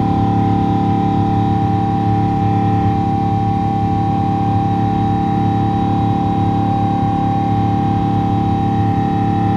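Boeing 777-200ER's GE90-92B turbofan engines running steadily, heard inside the cabin: a constant rumble with a steady whine layered over it and no change in pitch or level.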